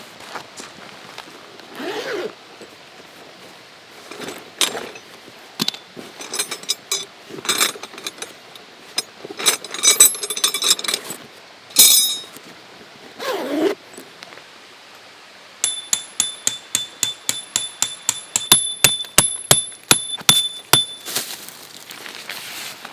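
Camp gear being handled: soft swishes and ringing metal clinks, then a quick, even run of metallic ticks, about five a second, for some five seconds.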